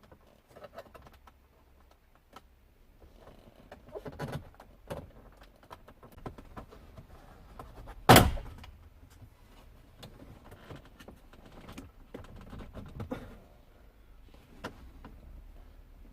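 Car interior dashboard trim and audio-unit parts being handled during removal: scattered clicks, rattles and rustling, with one loud sharp knock or snap about halfway through.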